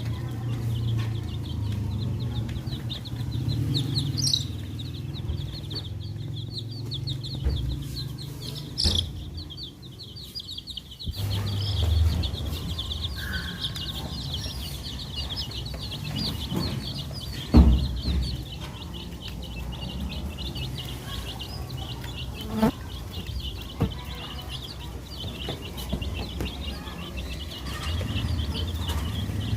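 Baby chicks peeping continuously, many short high-pitched peeps overlapping in a steady stream, over a low rumble, with one sharp thump partway through.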